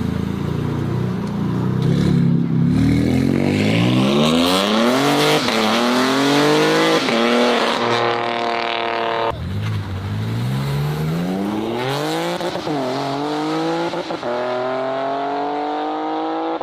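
BMW car engine accelerating hard through the gears, its pitch climbing and dropping briefly at each upshift. About nine seconds in the sound cuts off abruptly and a second run of acceleration starts, climbing again through another gear change.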